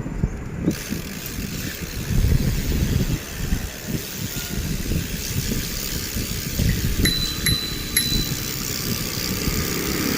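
Outdoor noise of a bicycle ride: an uneven low rumble of wind and road noise, with faint vehicle sound. About seven seconds in come three short clicks and a brief high tone.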